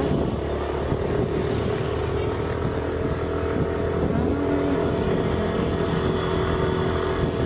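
A motor vehicle's engine running at a steady pace, with one short bit of voice about four seconds in.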